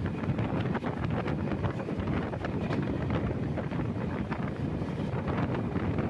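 Moving passenger train heard from an open coach door: wind buffeting the microphone over the steady rumble of the running train, with a constant patter of small rattles and clicks.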